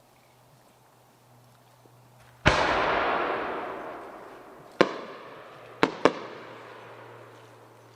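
Large aerial firework shells going off. A loud boom about two and a half seconds in rolls away over a couple of seconds, then come three sharp bangs, the last two close together.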